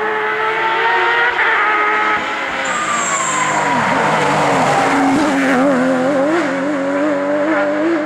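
Porsche 911 GT3 rally car's naturally aspirated flat-six at high revs: the pitch drops as the driver lifts a couple of seconds in, then the engine pulls again with an uneven, wavering pitch. A brief high squeal about three seconds in.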